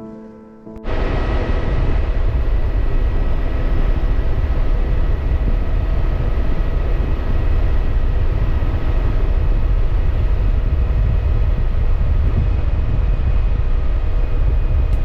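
Motorcycle riding at a steady speed: the engine runs at constant revs under heavy wind rush. The sound cuts in abruptly about a second in.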